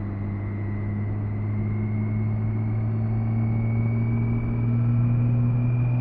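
BMW K1600B's six-cylinder engine running under way, its pitch and loudness rising slowly as the motorcycle gently accelerates, with a thin high whine rising alongside.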